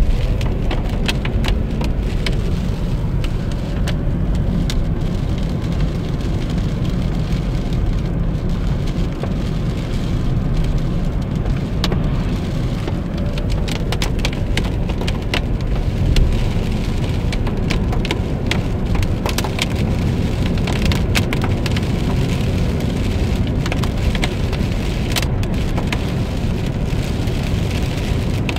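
Heavy rain hitting a car as it drives, with many scattered sharp drop ticks over a steady low rumble of road and engine.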